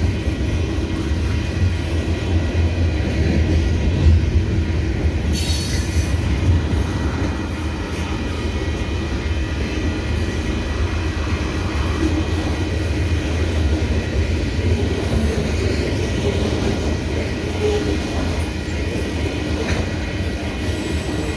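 Freight train cars rolling past, a steady rumble of wheels on rail with thin, high, steady wheel squeal over it, and a brief sharper high squeal about five seconds in.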